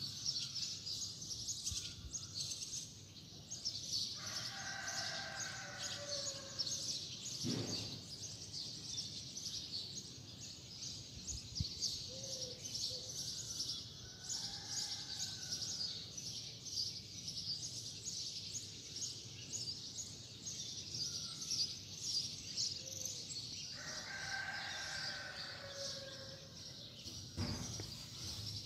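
Bird calls outdoors: a long call with a falling end twice, about four seconds in and again near the end, a fainter one in between, over steady high chirping.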